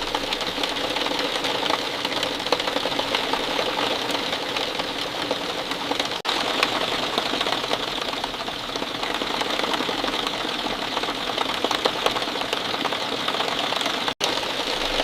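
Steady rain falling, a dense patter of countless small drop ticks, with two very brief dropouts, about six seconds in and near the end.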